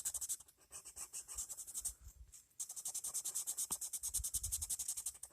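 Colored pencil shading on paper: rapid back-and-forth scratching strokes, several a second, with a brief pause about two seconds in.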